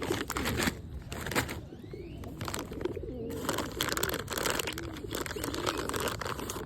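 Pigeons cooing over and over, with bursts of wing flapping.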